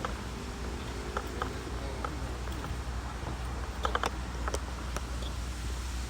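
Scattered footsteps and small ticks on a trail over a steady low rumble.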